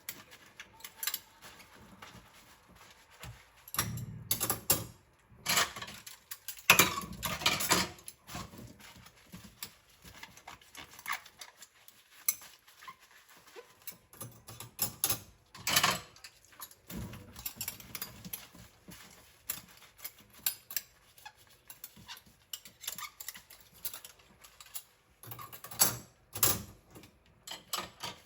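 Bowls clinking and knocking against each other and the sink while being rinsed, in irregular clatters with a few short splashy bursts of water.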